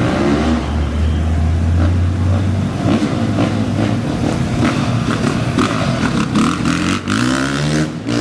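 Off-road racing engines running at the start line, revving up and down, with the pitch climbing near the end as a machine accelerates away.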